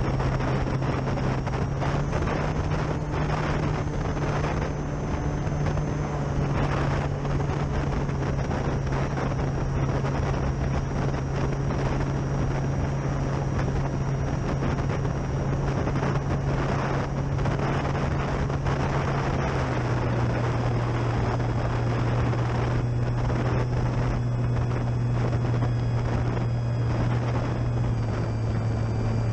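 Durafly Tundra RC plane's electric motor and propeller running steadily, a low hum with a faint high whine, its pitch stepping up about two seconds in and dropping around twenty seconds in and again near the end as the throttle changes. Gusty wind rushes over the microphone throughout.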